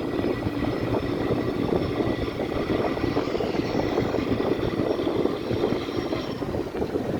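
Fishing boat's engine running steadily with a constant drone.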